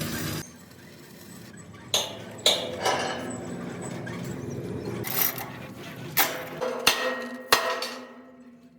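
Machinery running stops abruptly; then irregular sharp metallic knocks and clanks in a steel fabrication shop, about seven strikes with short ringing tails, under a faint steady hum.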